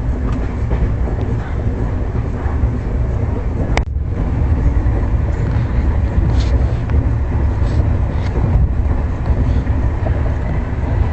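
Passenger express train running: the steady low rumble of the coach on the track, heard from inside the coach, with one sharp click about four seconds in.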